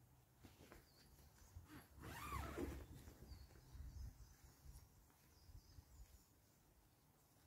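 Faint outdoor ambience with scattered high bird chirps. About two seconds in, a brief louder call rises and then falls in pitch over roughly a second, over a short rustle.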